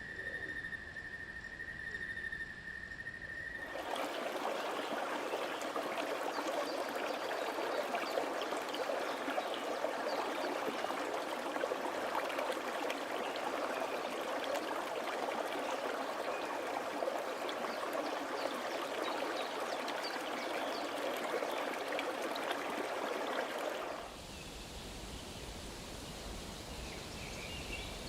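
Jungle nature ambience. A steady high insect drone is cut off after about four seconds by running water, a dense babbling stream that goes on for about twenty seconds. The water then gives way abruptly to a quieter, duller ambience with a low rumble.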